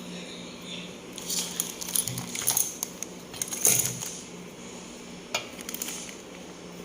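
Metal parts of a dismantled mixer-grinder jar clinking and clattering as they are handled. There is a quick run of sharp clinks about one to four seconds in, the loudest near four seconds, then a single clink a little before the end, over a faint steady hum.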